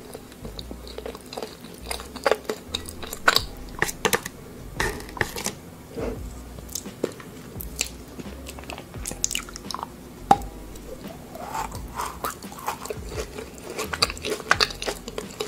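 Close-miked ASMR eating: biting and chewing of edible lipsticks and eyeshadow made of white chocolate, with irregular crisp snaps several times a second in clusters.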